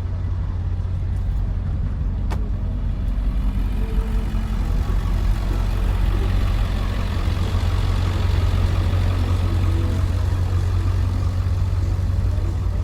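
Steady low rumble of a motor vehicle running, with a wash of mid-range noise that swells around the middle. A single sharp click about two seconds in.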